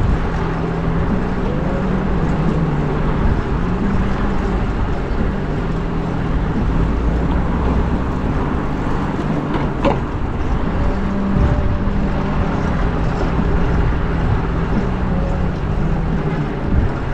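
Wind rushing over an action camera's microphone and motor traffic rumbling alongside a bicycle in city streets, with engine tones shifting in pitch and one sharp click about ten seconds in.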